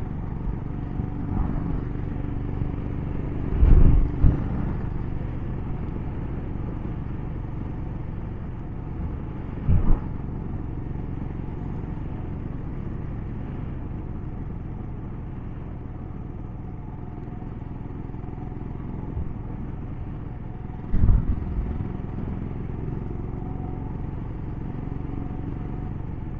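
Royal Enfield Himalayan single-cylinder motorcycle running steadily under way, with wind noise, broken by three short loud knocks about four, ten and twenty-one seconds in.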